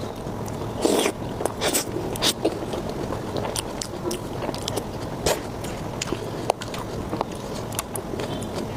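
Close-miked chewing and biting of food, a stream of small wet clicks and smacks, with a few louder bites in the first three seconds.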